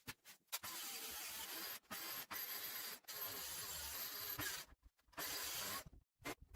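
Power tool running in five short bursts, the longest about a second and a half, with brief pauses between them.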